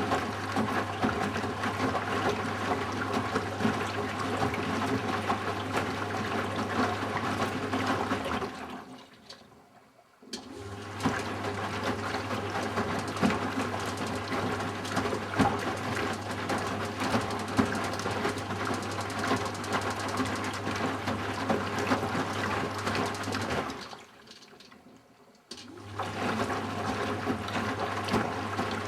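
Eudora Sparmeister 702 Classic washing machine in its fabric-softener rinse: the drum tumbles the wet laundry through the water over a steady motor hum. The drum stops twice for about two seconds, about nine seconds in and again near the end, then starts turning again.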